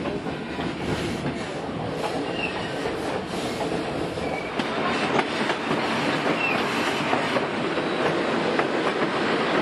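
A White Pass & Yukon Railroad passenger car rolling along the track, heard from inside the car: a steady rumble and clatter of wheels on rail, with a few brief high squeals.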